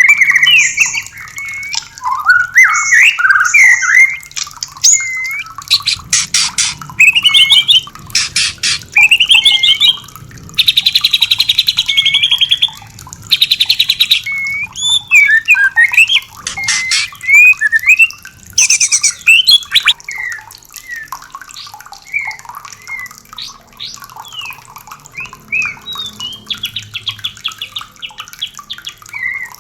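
White-rumped shama (murai batu) singing: rapid varied whistled phrases that swoop up and down, broken by several fast dry rattling chatters, the longest lasting about two seconds near the middle.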